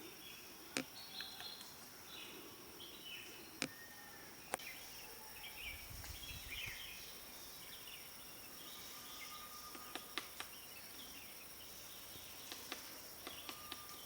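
Greater flameback woodpecker foraging on dead wood, giving sharp single pecks at irregular intervals, a few in quick pairs. Insects drone steadily and other birds chirp softly.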